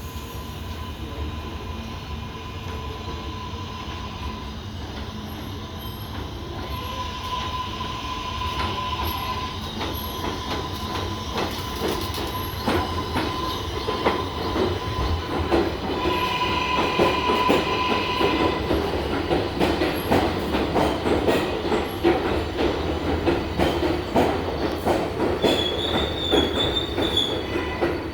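R188 subway train on the Flushing Line running on the tracks and growing louder, with a steady clatter of wheels over rail joints. High wheel squeals come through briefly about two-thirds of the way in and again near the end.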